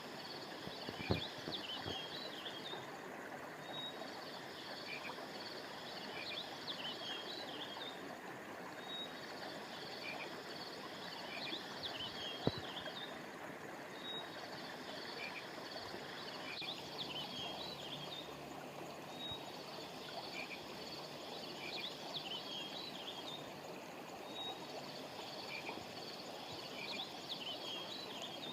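Steady rush of a flowing stream, with bursts of bird chirping that repeat about every five seconds. Two sharp clicks stand out, about a second in and again about twelve seconds in.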